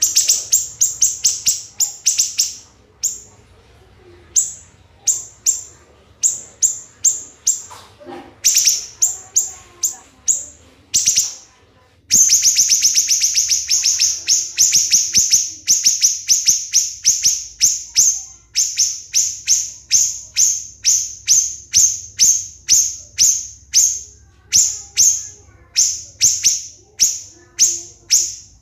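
A siri-siri songbird singing its rapid 'tembakan' (shot) song: sharp, high, down-slurred notes fired in tight series. Short bursts come with a few gaps in the first half, then a dense unbroken run of about two to three notes a second through the second half.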